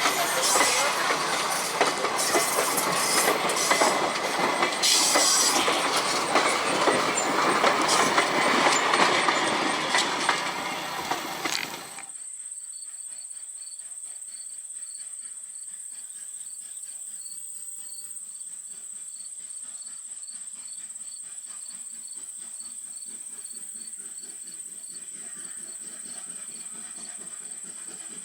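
Steam-hauled passenger train running by on jointed rail, a loud rushing noise with wheels clacking, for about twelve seconds. It then cuts off abruptly to quiet, leaving only a faint steady high-pitched tone with faint regular ticks.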